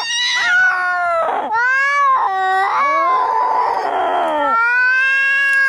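Angry cats yowling and caterwauling in a fight: drawn-out wailing calls that swoop up and down in pitch, broken by a harsh hiss about three seconds in, then a long steady yowl near the end.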